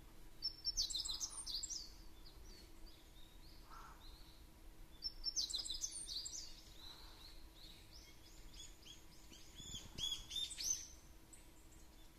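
Small birds chirping and singing in short high-pitched phrases: one burst just after the start, another about five seconds in, and a run of quick repeated notes around eight to eleven seconds in.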